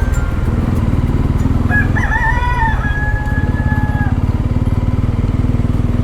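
Motorcycle engine running steadily with an even pulsing beat. A rooster crows once, starting about two seconds in and lasting about two seconds.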